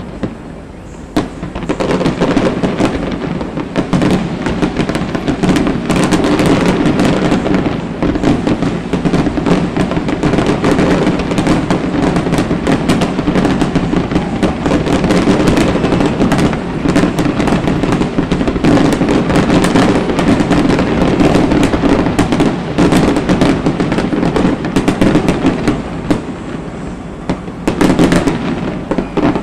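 Fireworks finale: aerial shells bursting in a dense, rapid barrage of bangs and crackles that builds about a second in, eases briefly near the end, then ends with one last loud flurry.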